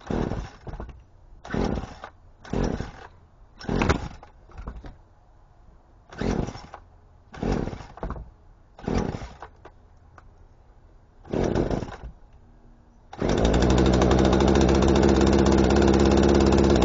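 42cc Poulan Pro two-stroke chainsaw being pull-started cold after sitting for almost a year: the starter cord is yanked about nine times in uneven succession, then the engine catches about 13 seconds in and keeps running steadily.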